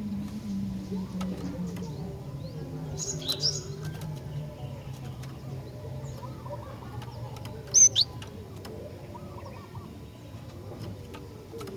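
Female cinereous tit (glatik batu) calling: short, sharp high chirps about three seconds in and a louder pair of calls near eight seconds. Under them runs a low steady hum that slowly drops in pitch.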